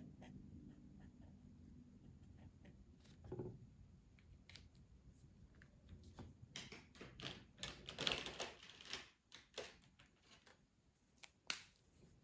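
Colouring tools being handled and used on paper: scattered small clicks and clacks, a busier run of clicking and scratchy strokes about six to nine seconds in, and one sharp click near the end.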